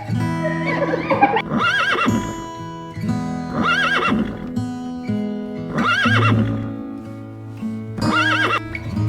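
An animal call repeated four times, about two seconds apart, each a short quavering cry, over background guitar music.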